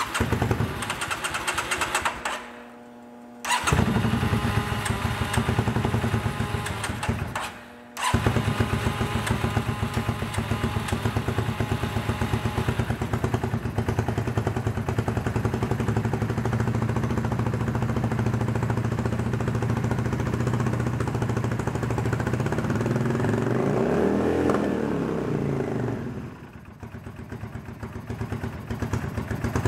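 2002 Yamaha V-Star 650's air-cooled V-twin engine running steadily, dropping out briefly twice early on and picking straight back up. A throttle blip about three-quarters of the way through briefly raises then lowers the pitch before it settles back.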